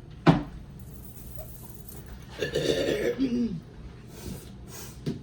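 A sharp knock near the start, then a person groaning for about a second, the pitch wavering and falling: a pained reaction to the burning heat of the hot nuts.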